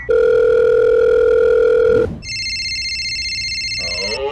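Telephone sound effect: a steady dial tone for about two seconds, cut off and followed by a higher electronic ringing tone.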